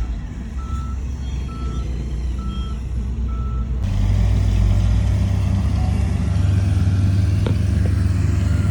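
Heavy machine's reversing alarm beeping about once a second over a diesel engine running. About four seconds in, the sound cuts abruptly to a louder, steady engine sound.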